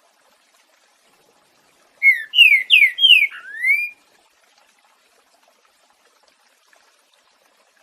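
Green-winged saltator (trinca-ferro) singing one short phrase in the song type called boiadeiro: about five loud whistled notes, mostly quick falling slurs with the last one rising, lasting about two seconds.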